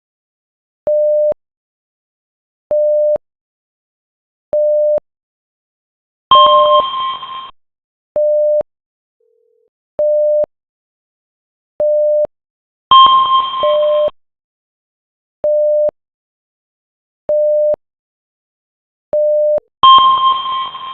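Electronic alert beeps: a short, steady, mid-pitched beep repeating about every two seconds. Three times a louder, higher ringing tone sounds and fades away over about a second.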